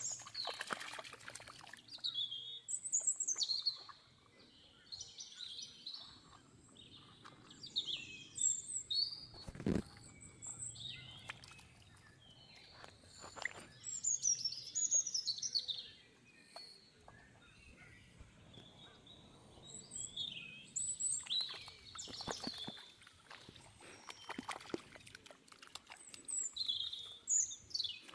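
Birds chirping and calling repeatedly in short, high-pitched notes, with a few short knocks in between.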